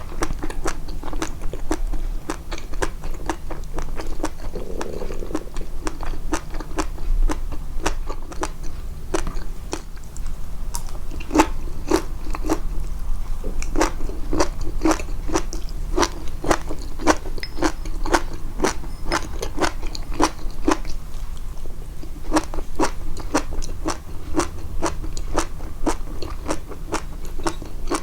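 Close-miked chewing of crunchy food, a steady rhythm of crisp crunches about two to three a second.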